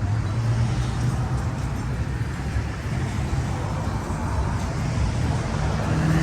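Street traffic: engines of cars cruising past run with a steady low rumble, and a new engine note comes in near the end.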